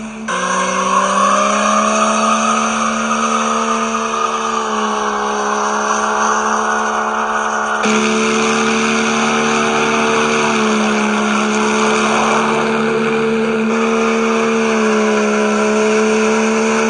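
Diesel pickup's built engine held at high revs through a burnout, a steady high engine note over the hiss of spinning, squealing tires. The note changes abruptly about eight seconds in.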